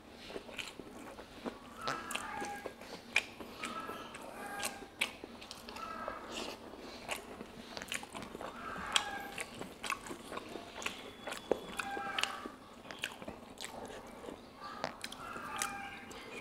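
A person chewing a mouthful of pork curry and rice, with many wet mouth clicks and smacks.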